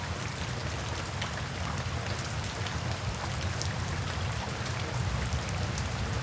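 Steady rain falling on a tin (sheet-metal) roof: a constant hiss with many sharp individual drop ticks, over a steady low rumble.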